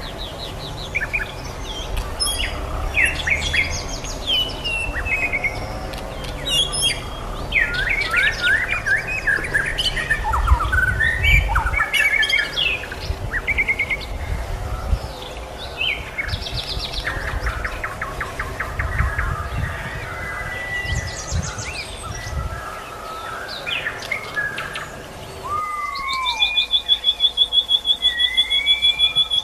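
White-rumped shama and sikatan londo singing: a long, varied run of whistles, sliding notes and fast warbles. Near the end comes a rapid, even trill.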